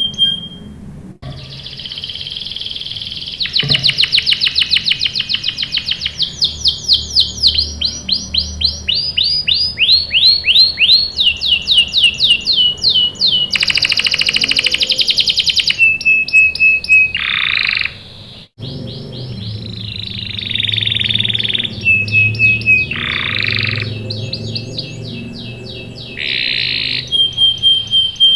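Domestic canary singing a long song made of fast trills of rapidly repeated downward-sweeping notes, buzzy rattling phrases and short held whistles, with a brief break a little past halfway.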